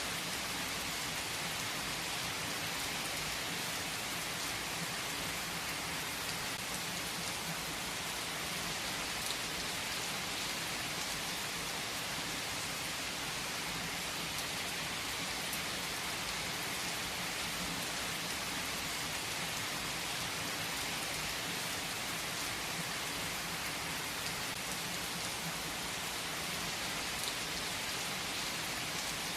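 Steady rain falling, an even hiss of drops on surfaces with no clear thunderclap.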